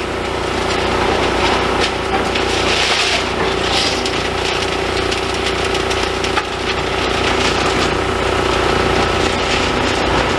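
A demolition excavator runs steadily while crunching and scraping through broken concrete and steel debris, with a steady mechanical hum under dense crackling and grinding.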